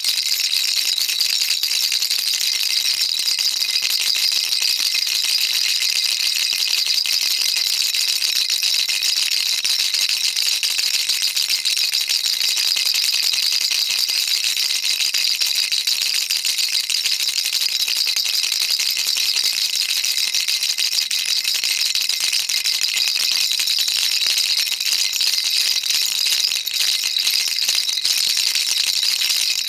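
Baby rattle shaken without pause: a dense, even, high-pitched rattling of small beads.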